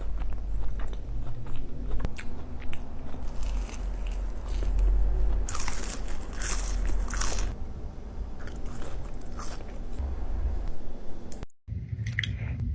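Close-miked biting and chewing of crunchy food, with a run of loud crunches in the middle. The sound cuts out briefly near the end.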